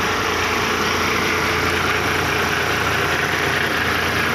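Steady engine and road noise of a moving road vehicle, heard from inside the cabin.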